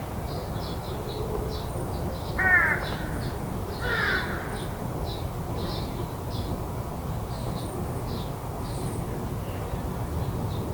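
A crow cawing twice, about two and a half and four seconds in, over a steady run of faint high chirps repeating about twice a second.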